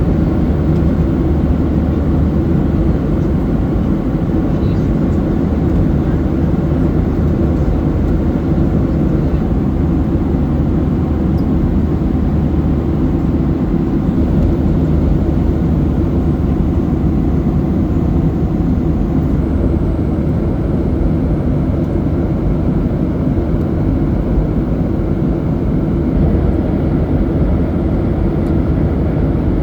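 Steady cabin noise of a Boeing 737-800 in cruise flight: a constant low rumble of engine and airflow noise heard from a passenger seat, with no change in level.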